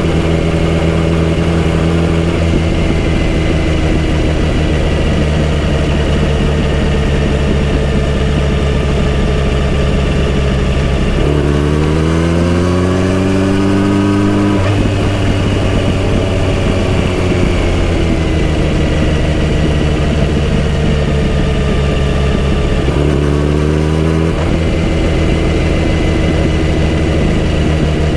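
Kawasaki Z900RS inline-four motorcycle engine and exhaust running steadily under way. Partway through, the revs climb for about three seconds and then drop off sharply. Near the end the revs climb again briefly.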